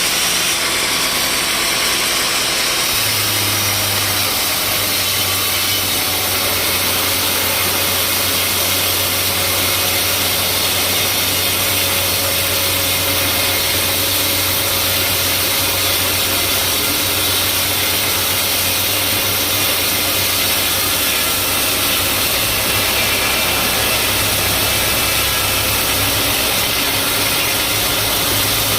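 Sawmill machinery running steadily, an engine-driven saw mill with a continuous low hum under a dense, even noise; the low hum grows stronger about three seconds in.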